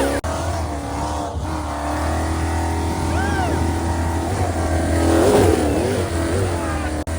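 Racing engine running hard and steady just after the start of a race, with a couple of brief whoops over it.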